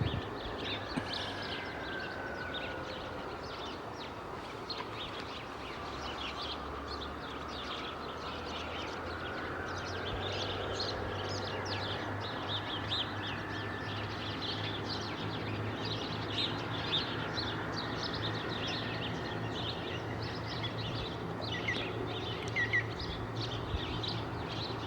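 Many small birds chirping busily in a dense chorus over a steady low hum.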